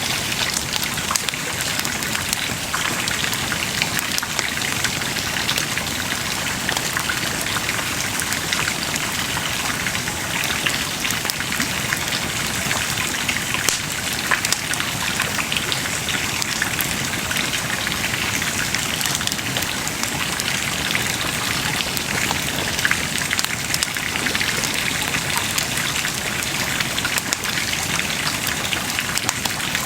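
Wood bonfire burning: a steady hiss of flames with a dense, irregular run of small crackles and pops from the burning wood.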